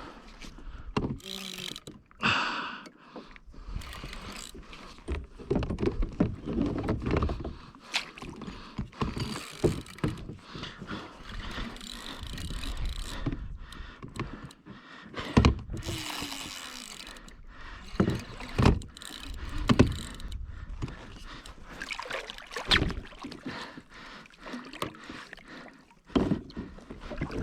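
Water sloshing against a fishing kayak's hull, with irregular knocks, thumps and rattles of gear being handled on deck.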